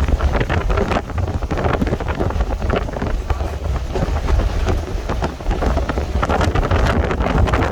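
Moving passenger train heard from on board, with a heavy low rumble and rattling, and wind buffeting the microphone.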